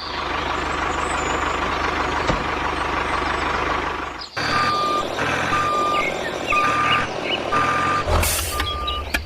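A vehicle engine running steadily. About four and a half seconds in, a reversing alarm starts beeping, about once a second, over the engine.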